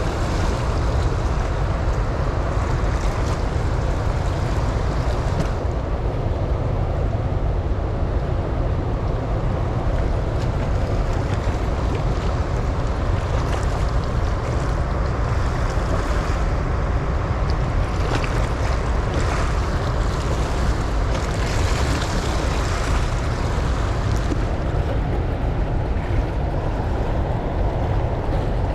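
Steady loud roar of water pouring through open dam flood gates and churning below them.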